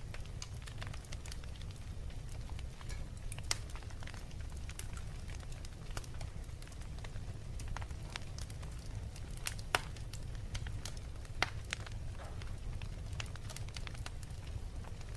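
Wood fire crackling in a fireplace: irregular small snaps and pops, a few sharper ones, over a steady low rumble.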